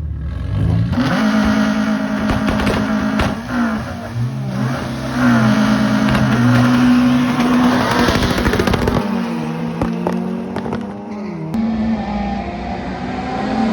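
Drag-racing car engines at full throttle, their pitch climbing and then dropping back in steps as the cars shift gear, with several sharp exhaust cracks mixed in.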